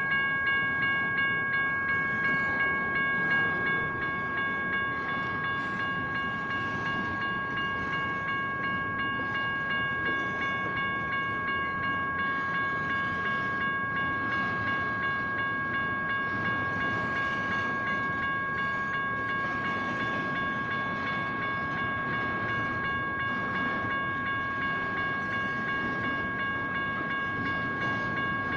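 General Signals Type 1 electronic crossing bells ringing with a steady, regularly pulsing electronic tone over the continuous rumble of a train's cars rolling through the crossing.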